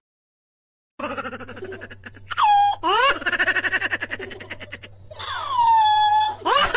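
Orange tabby cat yowling, starting about a second in: long wavering meows, a rapid stuttering run in the middle, and a long call that falls in pitch near the end, over a faint steady low hum.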